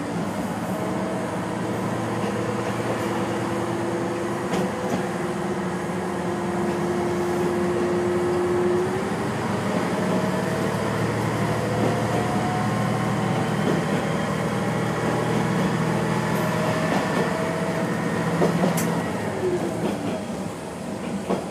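Small diesel railcar running along the track, heard from the driver's cab: a steady engine hum with wheel and rail noise and a few clicks from the track. The engine note changes pitch partway through and drops away near the end.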